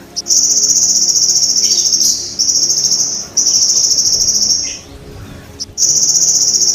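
Golden grasshopper (belalang emas) stridulating: a loud, high-pitched buzzing trill in bursts of one to two seconds separated by short pauses, used as song material for training sogon birds.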